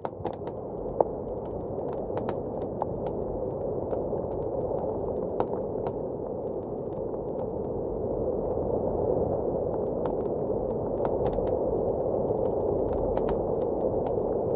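Fireplace crackling with irregular sharp pops and snaps over a steady rushing blizzard wind that swells slightly louder over the course.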